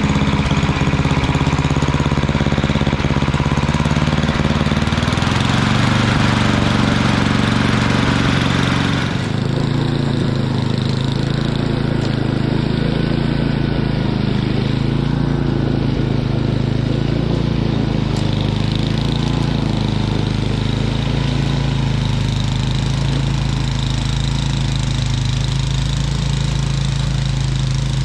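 Snowblower engine running steadily at a constant speed. About nine seconds in, a hissing layer over the engine drops away abruptly, and the engine runs on.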